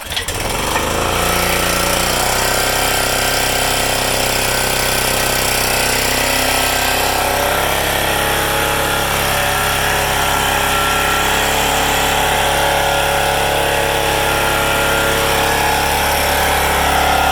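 Subaru EX21 7 hp single-cylinder overhead-cam petrol engine catching on a single recoil pull and settling within about a second into a steady, loud run.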